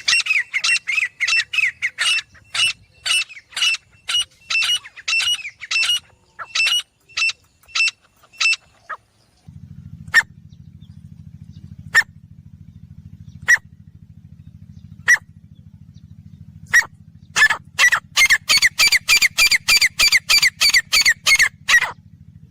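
Female grey francolin calling: a fast run of sharp, high calls, about three a second, then single calls roughly every second and a half, then another fast run near the end. A steady low hum comes in about halfway through.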